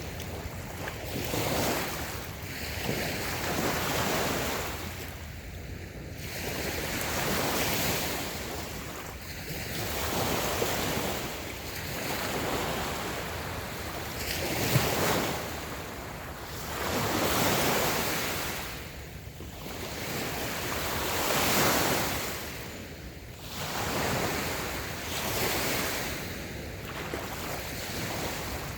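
Small, gentle waves breaking and washing up on a sandy beach, the surf swelling and easing every two to three seconds. One short click about halfway through.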